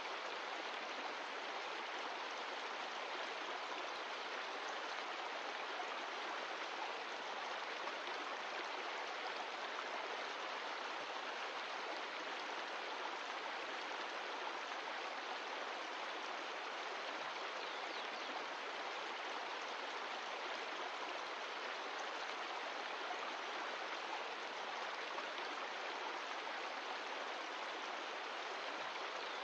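Mountain stream flowing, a steady, even rush of water with no breaks.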